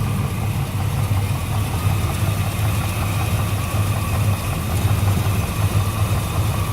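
Carburetted engine in a 1995 GM pickup idling steadily while it warms up after a cold start. It has a lumpy little thump to it from a cheap Summit cam and compression raised by closed-chamber heads.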